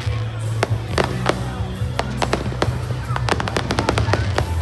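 Fireworks going off in a rapid string of sharp bangs and crackles, several a second, thickest a little after the middle.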